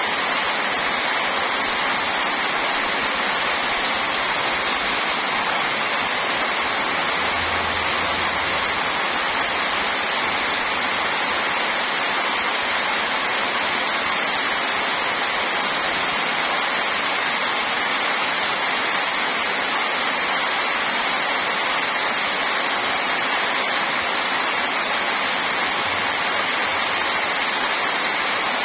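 Heavy rain pouring steadily onto wet pavement, an even, unbroken rush of water.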